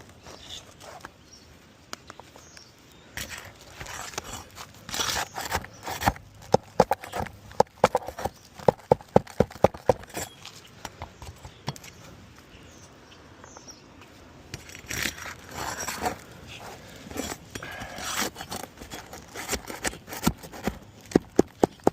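Work on an asphalt roof shingle as it is pried loose: scraping, and runs of quick, sharp taps at about four a second, once about six seconds in and again near the end.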